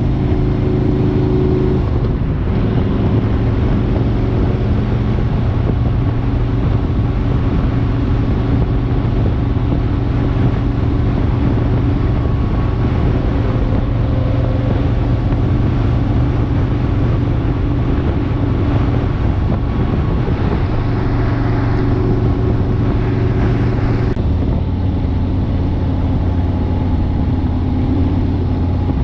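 Harley-Davidson Road King's V-twin engine running steadily at highway speed under wind and road noise. The engine note drops a little near the end.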